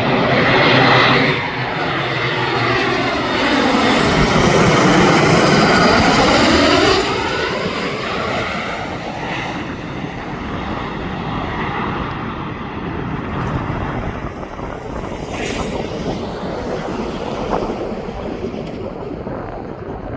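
Airplane passing close by: engine noise builds to its loudest about four to seven seconds in, with a sweeping, phasing tone as it goes past, then slowly fades away.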